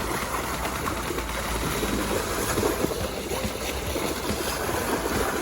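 Water sloshing and churning steadily in a small inflatable pool as children wade around in a circle to stir up a whirlpool.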